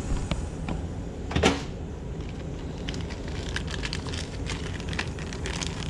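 Hand-handling noises from steam humidifier parts being worked during an O-ring change: scattered small clicks and taps, with one louder knock about a second and a half in.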